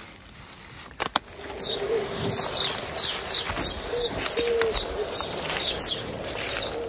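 Forest birds calling: one repeats short high chirps about every half second while another gives a few short, low notes. About a second in there are two sharp clicks.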